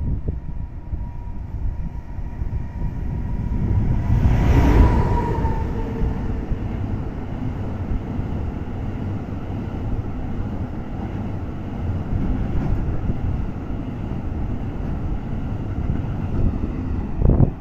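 Freight train hauled by an EF510 electric locomotive passing through a station without stopping: it grows loudest as the locomotive goes by about four to five seconds in, then the covered hopper wagons roll past with a steady rumble. A brief louder surge comes just before the end.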